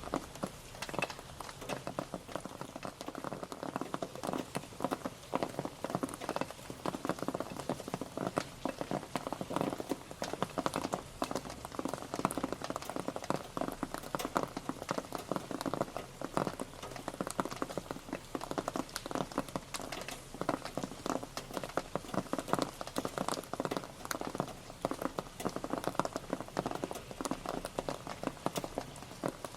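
Rain pattering steadily, a dense, irregular stream of individual drops striking a surface.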